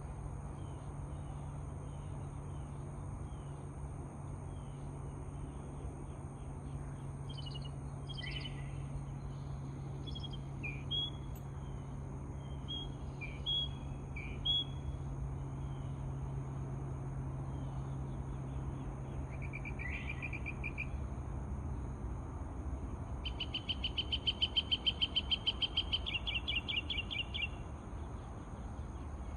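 Wild birds singing and calling in short chirps and whistles, with a loud, fast trill of rapidly repeated notes near the end. A steady low hum sits underneath until about three-quarters of the way through.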